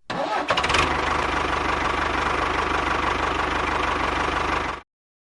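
A small motor running steadily with a fast, even pulsing, starting abruptly and cutting off suddenly near the end.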